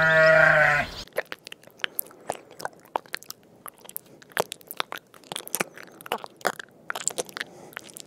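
A single bleat from a Barbary sheep that cuts off about a second in. It is followed by an irregular run of small, crisp crunching clicks: a land snail rasping and chewing moss.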